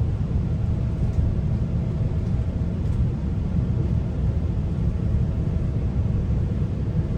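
Steady low rumble of a GO Transit passenger coach running along the track at speed, heard from inside the coach, with a faint steady hum above it.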